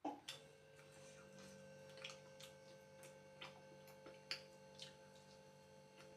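Near silence: a faint steady electrical hum with soft, irregular clicks scattered through it.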